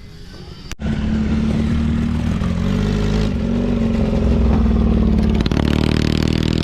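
A motorcycle engine running loud at high revs, starting abruptly about a second in. Its note changes about two-thirds of the way through.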